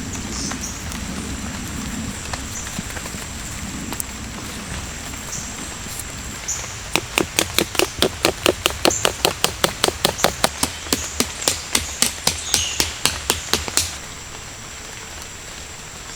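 Hammering: a run of quick, sharp strikes, about three or four a second, starting about seven seconds in and stopping near fourteen seconds, over a faint steady high whine.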